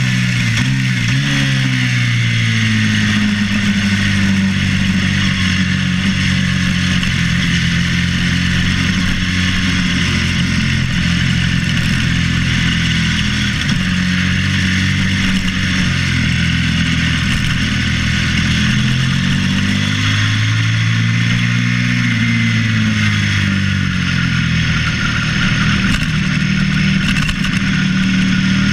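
Suzuki SV650's V-twin engine at race pace under a steady rush of wind, heard from a camera mounted on the bike. The engine pitch drops in steps about a second in as it shifts down, then rises and falls again around twenty seconds in.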